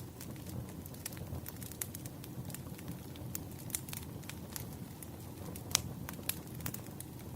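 Wood fire crackling: a steady low rumble of burning logs with frequent sharp pops and snaps, one louder snap a little past the middle.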